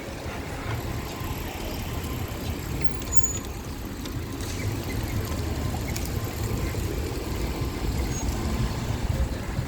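Steady low rumble of wind buffeting the microphone on a moving bicycle, mixed with passing street traffic.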